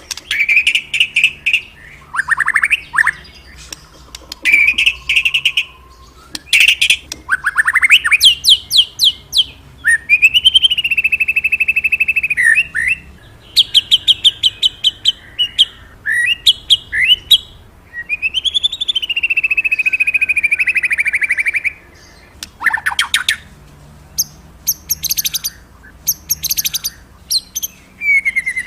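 A white-rumped shama (murai batu) singing a loud, varied song: quick runs of rapid notes and sweeping whistles, mixed with long, buzzy, steadily held phrases, with short pauses between phrases.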